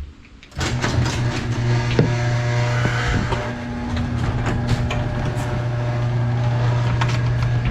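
Electric garage door opener running as the overhead door closes: a steady motor hum that starts about half a second in, with clicks and rattles from the door travelling along its track.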